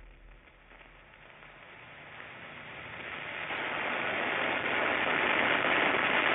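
A rushing noise effect that swells steadily louder over several seconds.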